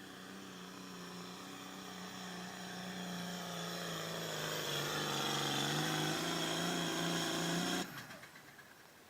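Turbocharged diesel pulling tractor running hard under load, getting steadily louder, its note sagging a little past the middle, with a high turbo whine over it. The sound stops abruptly near the end.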